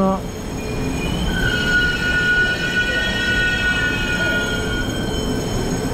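Electric passenger train pulling into the platform, running with a low rumble. From about a second in it gives a high, steady squeal of several tones as it slows, which fades near the end.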